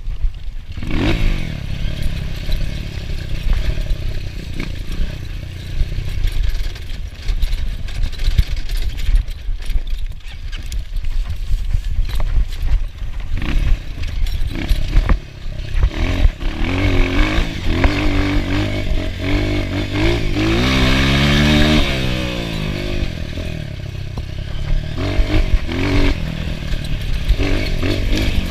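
Enduro motorcycle engine revving up and down on rough ground, with the clatter and knocks of the bike over bumps. Past the middle the engine note climbs steeply and falls back again, loudest about three quarters of the way in.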